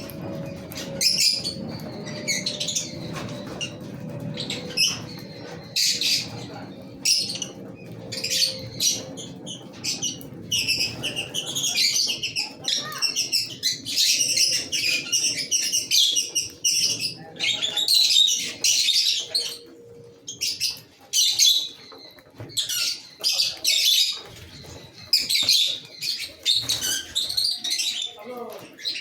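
A colony of lovebirds chattering, many birds at once giving rapid, shrill chirps and squawks without pause.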